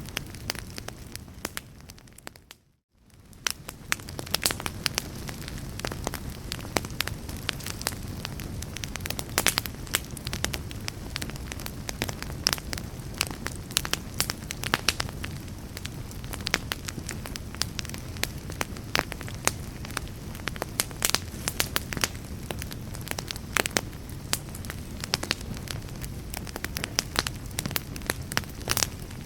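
Fire crackling: frequent sharp pops and snaps over a steady low rush. About two seconds in the sound fades out to near silence, then fades back in within about a second.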